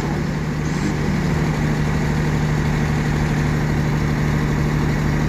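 Heavy truck engine running steadily at an even speed, a constant low hum with no change in revs.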